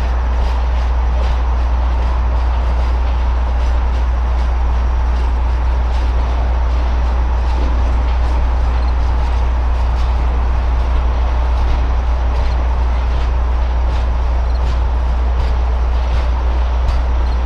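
Norfolk Southern Triple Crown RoadRailer train rolling past: a steady rumble with frequent sharp clicks from the wheels over the rail.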